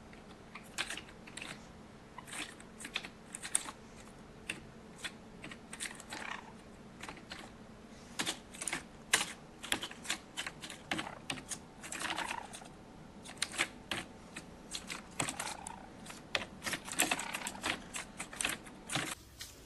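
Irregular light clicks and scratchy taps, several a second and uneven in loudness, over a faint steady low hum.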